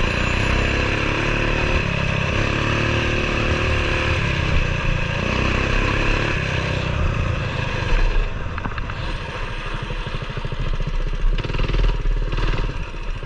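Coleman BT200X mini bike's small single-cylinder engine running steadily under way, then dropping to a lower, slower, pulsing run about halfway through as the bike slows.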